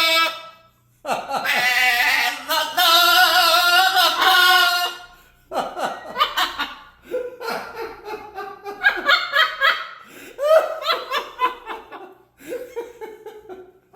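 A pet parrot sings a long wavering note, then mimics human laughter in a run of short 'ha-ha' bursts lasting about seven seconds.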